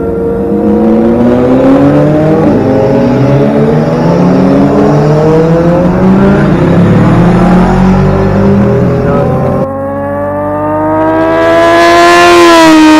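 Racing motorcycle engines on a track, revving higher as they accelerate. Near the end one bike comes closer with a rising, loudening whine and passes with a sharp drop in pitch.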